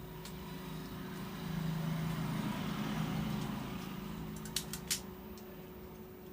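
A motor vehicle's engine hum swelling and fading as it passes by, with two sharp clicks about three-quarters of the way through.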